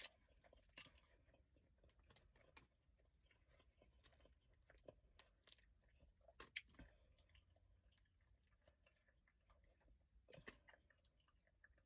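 Faint eating sounds: quiet chewing with scattered small cracks and clicks from boiled crawfish being peeled and eaten.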